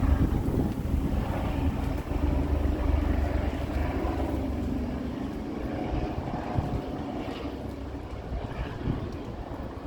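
Helicopter engine and rotor running, a steady low hum under gusty wind buffeting the microphone. It is loudest in the first few seconds and eases slightly towards the end.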